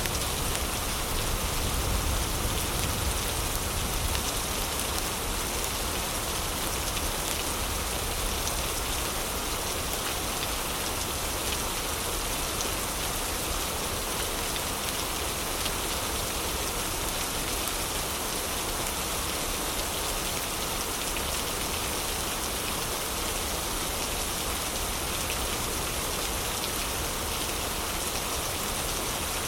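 Heavy rain falling in a steady, even hiss, with a little extra low rumble in the first few seconds.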